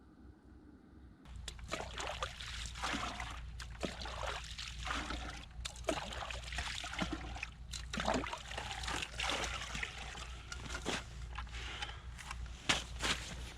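Water sloshing and trickling mixed with the clatter of things being handled, starting abruptly about a second in, with a steady low hum underneath.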